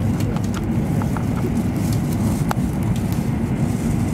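E7 series Shinkansen running at speed, heard from inside the passenger cabin: a steady low rumble with a few faint ticks.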